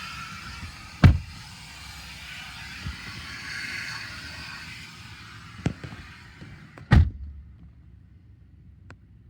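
Two heavy thumps of car doors being shut, about a second in and again near seven seconds. After the second the hiss of the car wash outside drops away, as if heard from inside the closed car.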